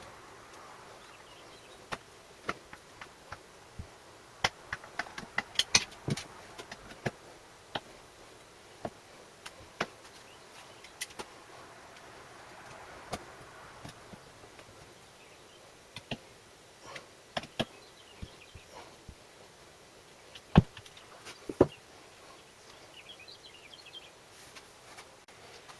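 Irregular light clicks and knocks, the sound of small hard objects being handled, with two louder knocks a second apart about three-quarters of the way through. No engine is running.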